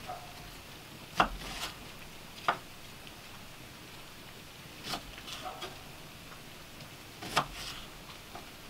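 A handful of sharp knocks at irregular intervals over a low, steady background.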